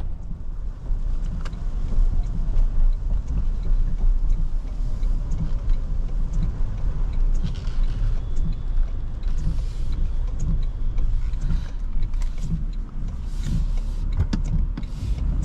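Steady low rumble of a 2023 Toyota Tundra pickup driving on wet roads, heard from inside the cab. Scattered light ticks and short hissing swishes come in the second half.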